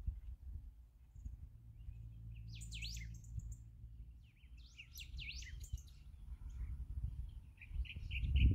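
Wild songbirds calling: quick sweeping high chirps in two bursts, then a run of short repeated notes, about five a second, near the end. A low rumble sits underneath, with a dull bump near the end.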